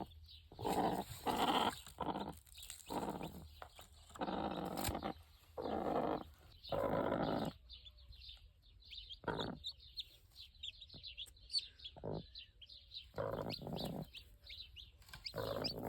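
Farm animals calling over and over in short, harsh calls, bunched at the start and again near the end. Small birds chirp faintly through the quieter middle stretch.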